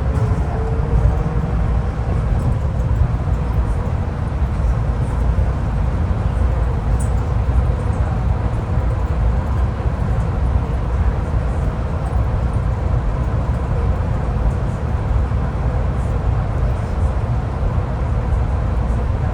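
Airport people-mover train running between stations, heard from inside the car: a steady low rumble with a faint motor whine that rises slightly near the start.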